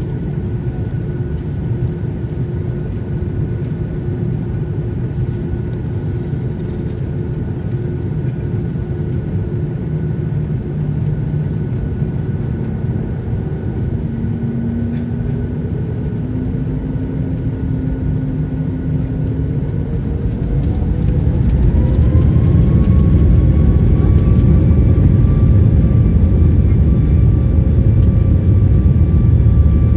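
Boeing 737 MAX 8's CFM LEAP-1B jet engines heard from inside the cabin: a steady low rumble with a faint whine, then about twenty seconds in the engines spool up, the whine rising in pitch and the rumble growing louder as takeoff thrust is set.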